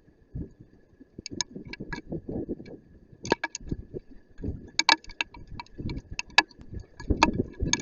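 Hailstones striking hard surfaces: a scatter of sharp, irregular ticks and clicks, several a second, over duller low knocks.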